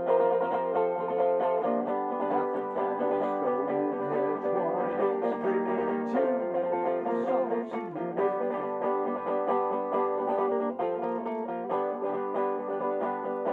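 Acoustic plucked-string music: guitar and banjo-like picking in a steady rhythm, with held and sliding notes through the middle, played as an instrumental introduction.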